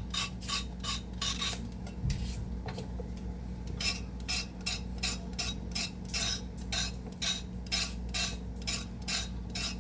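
Hand vegetable peeler scraping along a vegetable in quick repeated strokes, about two a second, with a pause of a second or so about two seconds in.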